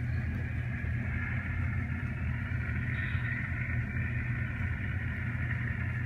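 N scale ScaleTrains Tier 4 GEVO model locomotive running along the track, giving a steady electric motor and gear whine over a low hum.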